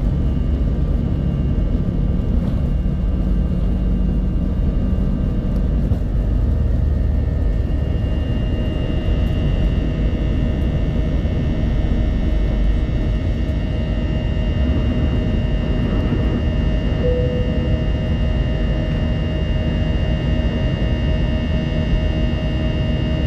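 Airbus A320 cabin noise with the jet engines running at low power before the takeoff roll: a steady rumble with a thin whine on top, which grows a little stronger about a third of the way in.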